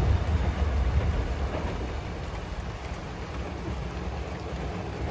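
A passing train's low running rumble, fading steadily as it recedes, over a steady hiss of rain.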